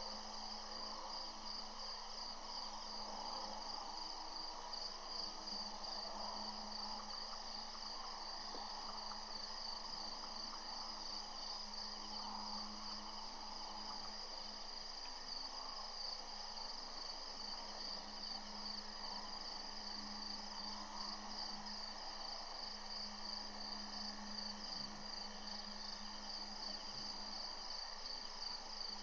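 Evening chorus of crickets trilling steadily, with a fast pulsing high trill that never breaks, over a faint steady low hum.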